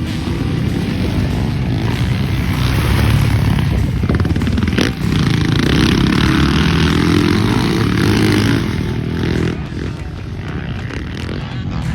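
Motocross dirt bike engine running hard under throttle, with a brief drop about five seconds in. It eases off around the ninth to tenth second, then picks up again near the end.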